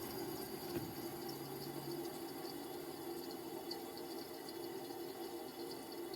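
Window air conditioner's refrigerant trickling and gurgling through its coils, with faint irregular ticks over a steady low hum.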